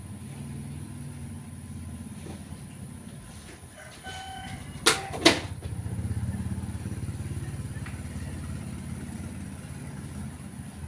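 Low, steady engine rumble with two sharp knocks close together about halfway through.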